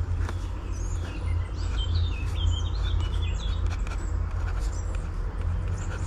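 Small birds chirping, a cluster of quick short chirps about two to three seconds in and a few more later, over a steady low rumble.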